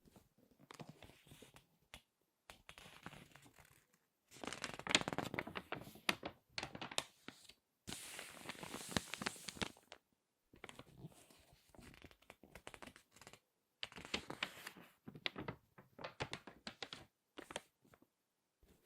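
Glossy magazine pages crinkled and squeezed by hand, with page turns: bursts of dense crackling separated by short pauses, the loudest and densest crinkling about four to ten seconds in.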